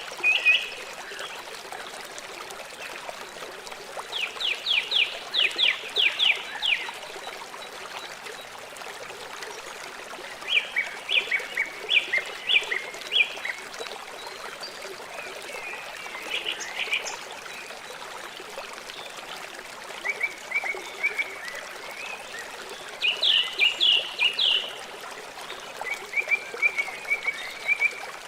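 Steady rush of a river, with groups of rapid, high chirping calls every few seconds, each a quick run of notes lasting one to two seconds.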